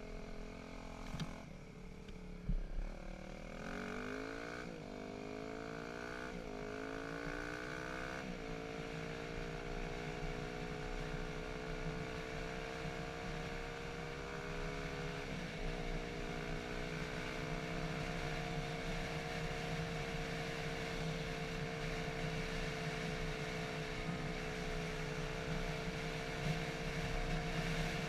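Dirt bike engine picking up speed. Its pitch climbs and breaks off three times in quick succession as it shifts up through the gears, then it runs at a nearly steady pitch with one brief dip about halfway through.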